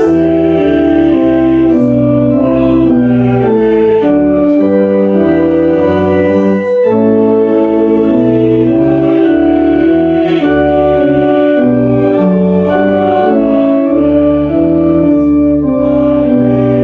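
Church organ playing a hymn in full, sustained chords with deep pedal bass notes, the chords changing at a steady, unhurried pace.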